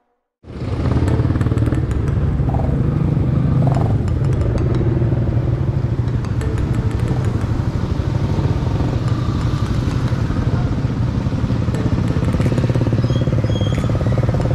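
Motorcycle engine running steadily as the bike is ridden, starting suddenly about half a second in. A few short high-pitched beeps come near the end.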